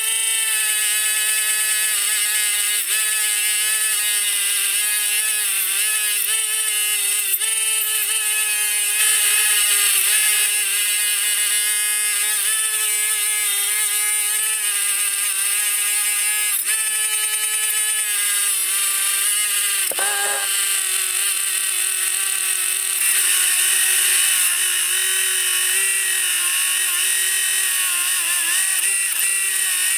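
Small high-speed electric power tool running steadily, its pitch dipping and recovering again and again, with one sharp slowdown about two-thirds of the way through.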